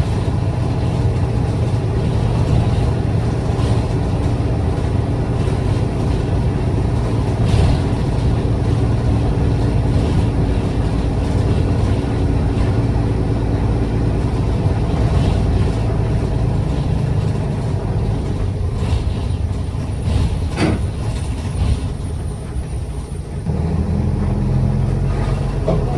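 City bus diesel engine running, heard from inside the cabin with steady road rumble. There is a brief sharp sound about twenty seconds in, and the engine note changes a few seconds before the end.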